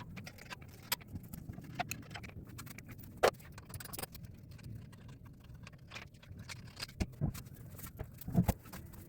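Irregular knocks and metallic clicks of hand tools and wheels being handled while wheels are taken off for a tire rotation, with a sharper knock about three seconds in and a cluster of knocks near the end.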